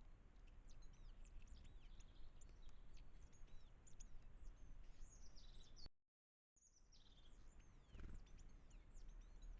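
Faint woodland chorus of small songbirds giving many short chirps and quick falling calls, over a steady low background hiss. The sound drops out completely for about half a second midway, then the chirping picks up again.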